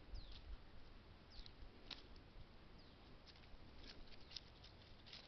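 Quiet outdoor ambience: a small bird's short, high call falling in pitch, heard about three times, with faint scattered ticks and crackles.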